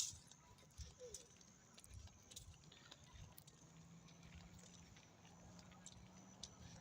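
Near silence: faint background ambience with a few scattered small clicks and a faint low hum.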